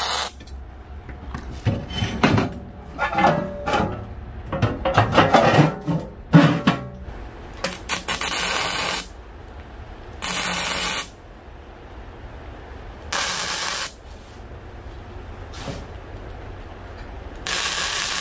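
Steel pieces clanking and ringing as they are handled and knocked into place, then four short bursts of electric arc welding hiss, each about a second long: tack welds on a steel stove body.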